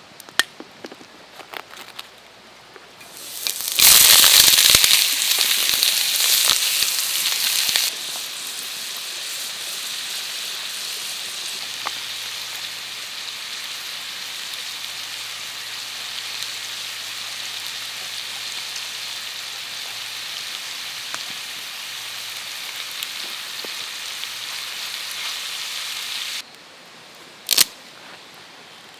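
Food frying in a hot pan: a loud sizzle bursts up a few seconds in as the food goes into the fat, then settles into a steady sizzle that cuts off sharply near the end, with a single click after it.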